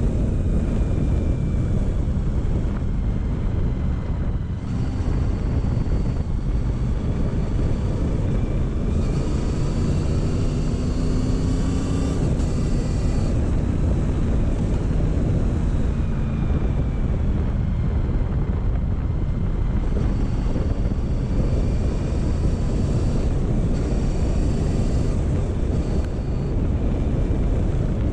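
Motorcycle engine running at low road speed, heavily mixed with wind rumble on the microphone, the revs rising briefly about ten seconds in.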